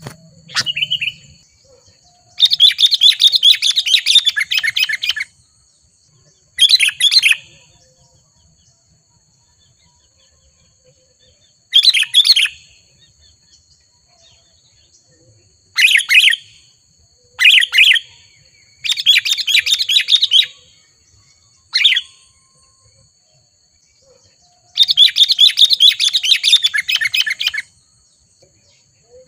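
Sooty-headed bulbul singing loud bursts of rapid chirpy notes, each a fraction of a second to about three seconds long, repeated eight times with quiet gaps between them. This is the lively, sustained song of a male in full voice, the kind used to provoke rival birds.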